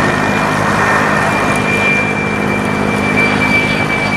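Engine running steadily: a dense rushing noise with a high, steady whine above it.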